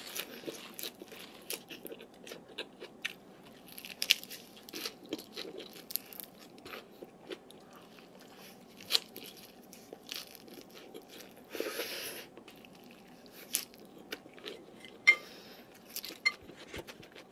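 Close-up crunching and chewing of raw salad, celery and greens: irregular crisp bites, a longer crackly crunch about twelve seconds in, and a couple of sharp clicks near the end.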